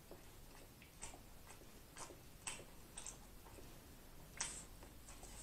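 Faint, irregular wet clicks of a man chewing a mouthful of corn dog with his mouth closed, with a slightly louder click about four and a half seconds in.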